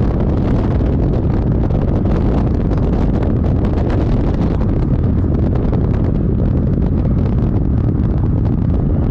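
Horrible wind noise: wind buffeting the microphone of a moving car, a loud, steady low rumble with no let-up.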